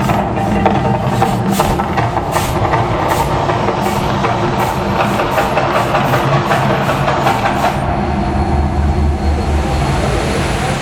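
Volcano show soundtrack: rhythmic drumming over a loud, deep rumble; the drum strikes stop about eight seconds in and the low rumble swells near the end.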